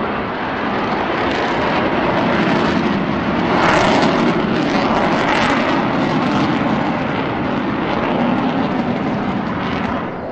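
Avro Vulcan's four Rolls-Royce Bristol Olympus jet engines, a loud, steady roar of jet noise as the bomber flies past, loudest about four seconds in.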